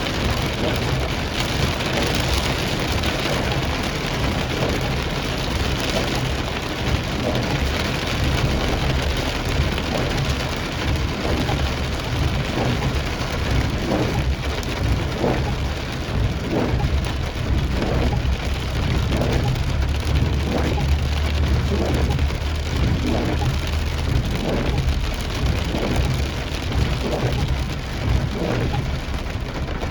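Heavy rain falling hard, a dense steady hiss over a low vehicle rumble, with a faint regular stroke about once a second through the second half.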